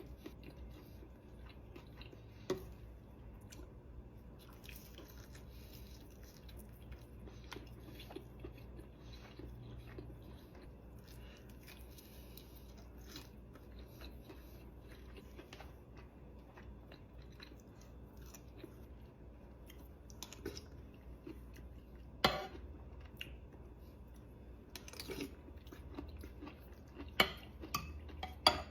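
A person chewing and biting food close to the microphone, with scattered small mouth clicks and a few sharp knocks, the loudest about 22 seconds in and twice near the end.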